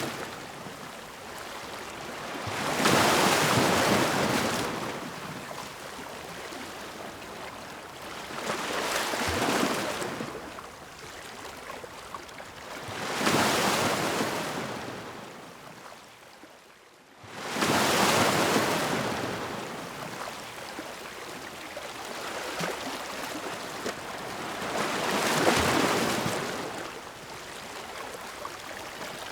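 Ocean waves breaking on a shore, about five swells in half a minute, each rising to a rush and washing away. Near the middle one wave comes in abruptly after a short quiet lull.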